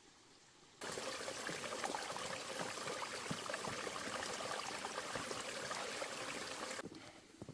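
Running water, a steady rushing and trickling like a stream, that cuts in abruptly about a second in and cuts off just before the end.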